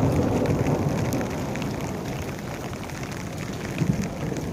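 Heavy rain falling on roofs and pavement, with scattered sharp drips. The low rumble of a thunderclap dies away over the first couple of seconds.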